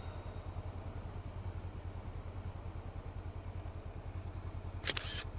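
Honda CB500F's parallel-twin engine idling at low revs, a steady, even low pulse. A brief sharp noise cuts in near the end.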